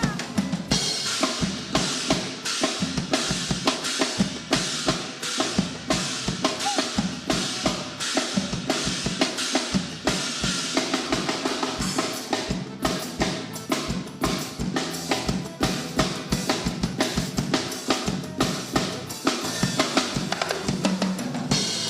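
Forró band playing an instrumental passage, drums keeping a steady, driving beat under the melody.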